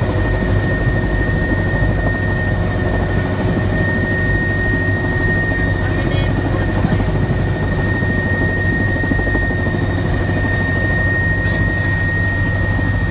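Helicopter engine and rotor running, heard from inside the cabin: a loud, even drone with a steady high-pitched whine over it.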